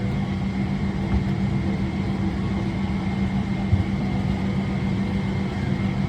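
Steady cabin hum of a Boeing 777-300ER parked at the gate: ventilation airflow with a constant low drone and a faint high whine.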